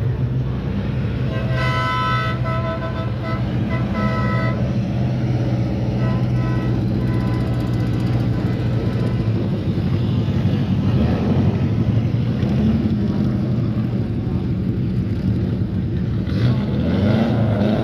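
A vehicle engine running steadily. A horn-like tone sounds in short broken toots from about one and a half to four and a half seconds in, and comes back fainter a few seconds later. Near the end there is a brief rising sweep.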